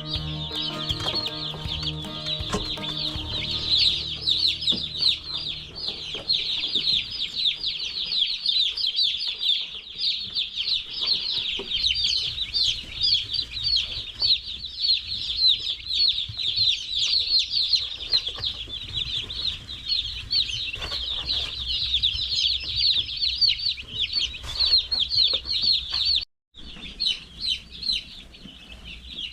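A large flock of day-old Cornish Cross meat chicks peeping continuously: a dense chorus of many high, short chirps. It cuts out for a moment near the end.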